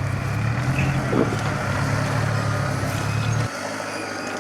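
Off-road vehicle engine running steadily with a low drone that cuts off suddenly about three and a half seconds in.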